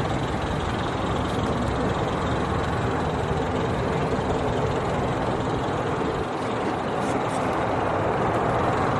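Steady engine noise of an aircraft running on the ground, a loud even roar that holds at one level throughout.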